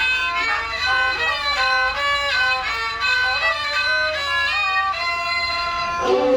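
A bowed fiddle playing a Thai classical overture (homrong) melody, stepping from note to note. A lower, louder sound comes in right at the end.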